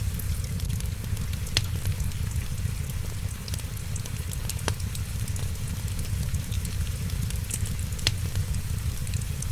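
Wood fire crackling, with scattered small snaps and a few louder pops over a steady low rumble and a hiss of rain.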